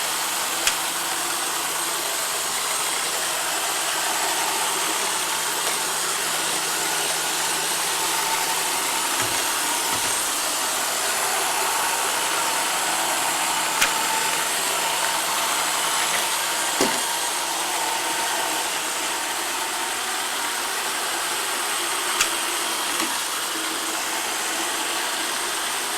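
Roomba Sage robot vacuum running: a steady whirring hiss from its motor and brushes, with a few sharp clicks or knocks.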